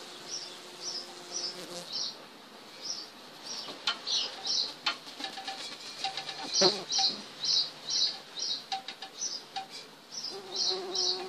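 A small bird chirping repeatedly, short high notes a few times a second. A few clicks and a single knock come about halfway through.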